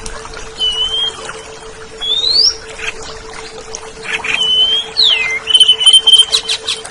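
Oriental magpie-robin (kacer) singing: clear whistled notes, some held flat, some sweeping up and one sliding down, with a quick run of sharp notes near the end.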